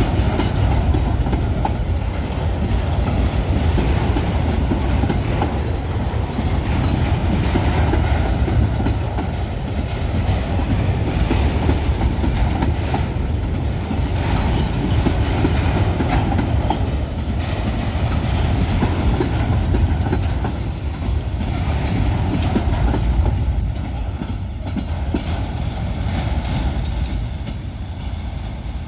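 Empty freight wagons of a train rolling past, their wheels clattering over the rail joints, easing off a little near the end.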